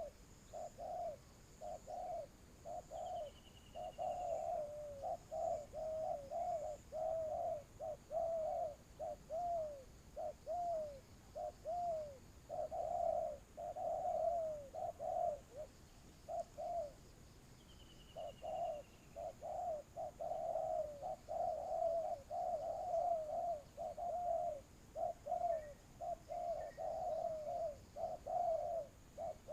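Spotted doves cooing over and over, phrase after phrase, almost without a break and overlapping in places. Three times a short, faint, falling chirp from a smaller bird is heard, once near the start, once about the middle and once at the very end.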